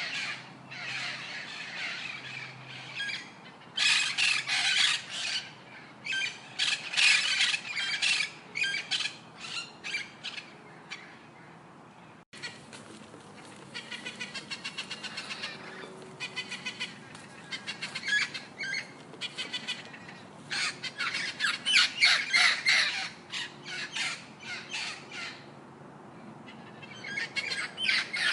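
Birds calling: harsh squawks and chirps in rapid repeated bursts, broken by a sudden cut about twelve seconds in, after which a different run of calls begins.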